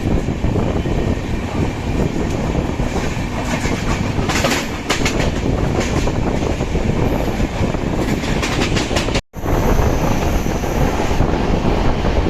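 Coromandel Express passenger train running at speed: a steady rumble of wheels on rails, with runs of rhythmic clickety-clack over rail joints about four seconds in and again around eight seconds. The sound drops out for an instant a little after nine seconds, then the rumble resumes.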